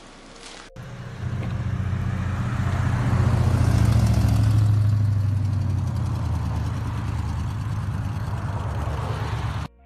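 The 5.7-litre Hemi V8 of a 2005 Chrysler 300C running loud and deep through exhaust that is not yet fixed. It starts about a second in, swells to its loudest around four seconds, then eases slightly and cuts off abruptly near the end.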